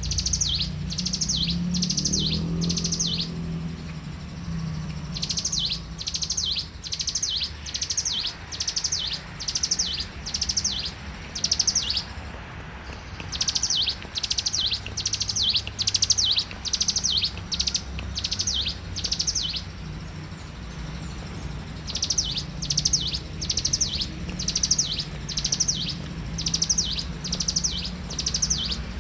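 A ciblek gunung, a small prinia, singing at full strength: a short, high trilled phrase repeated about once or twice a second in runs of several seconds, broken by short pauses. A steady low rumble sits under the song.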